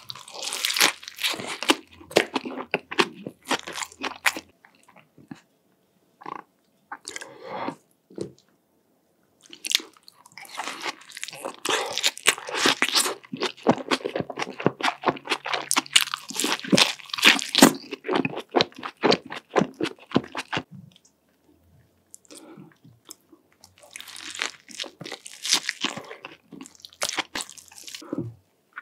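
A person biting into and chewing burgers with shredded lettuce: crisp, crackly chewing that comes in bursts with a few short pauses.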